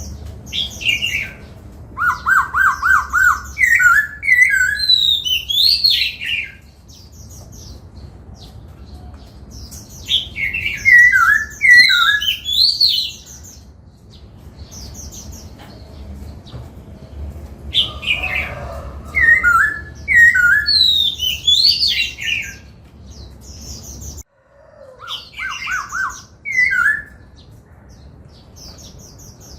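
Black-throated laughingthrush singing: four loud phrases of quick sliding whistled notes and rapid repeated notes, each a few seconds long, with short pauses between them.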